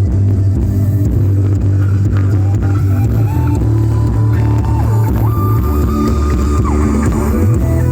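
Loud music played through a sound van's loudspeaker system under test, with heavy bass and a lead line that slides between notes about halfway through.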